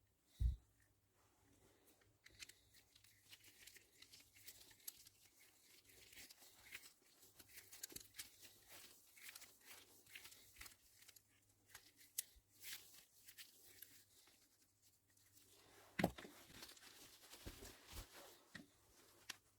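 Faint hand-work noises: irregular small clicks, taps and rustling of something being handled, with a sharp knock about half a second in and another about 16 seconds in.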